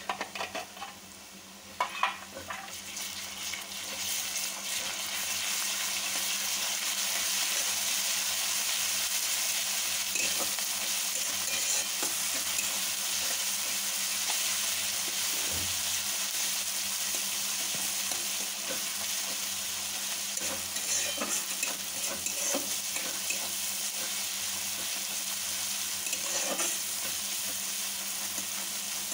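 Ginger and garlic paste frying in hot oil with browned onions in a kadai, stirred briskly with a spatula. The sizzle swells about three seconds in as the paste is stirred into the oil and then holds steady, with occasional taps and scrapes of the spatula on the pan.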